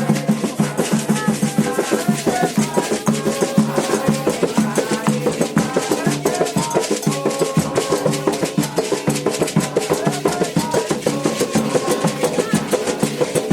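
Candomblé ceremonial drumming: hand drums beating a fast, steady rhythm, with voices singing over it.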